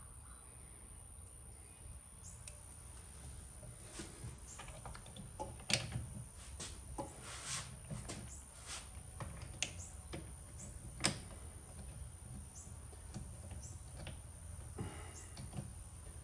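Scattered light clicks and taps of small parts and hardware being handled during fitting work, with a sharper knock about six seconds in and another about eleven seconds in, over a steady high-pitched whine.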